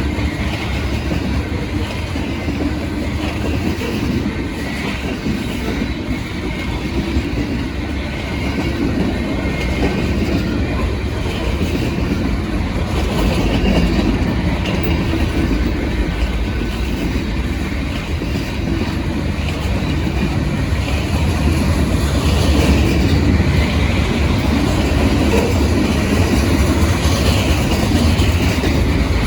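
Freight train cars rolling past at steady speed: a continuous rumble with wheels clacking over rail joints and faint wheel squeal.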